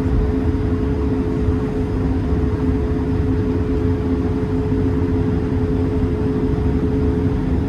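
Cabin noise inside an Airbus A220-300: its Pratt & Whitney PW1500G geared turbofan engines running, a steady two-note hum over a low rumble.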